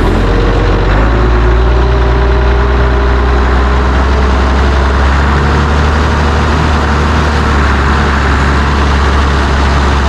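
A heavy farm tractor engine running at a steady speed, close and loud, while the loader is at work.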